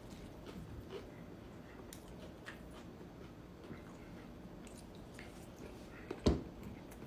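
Quiet chewing and mouth sounds of a person eating ramen noodles, with scattered faint clicks. There is a single brief louder knock about six seconds in.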